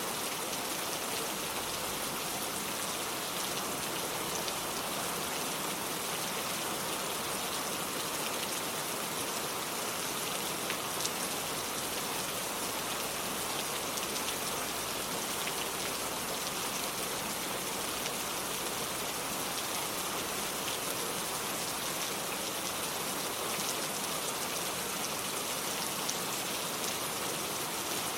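Steady rain falling on hard surfaces, an even hiss dotted with the patter of individual drops.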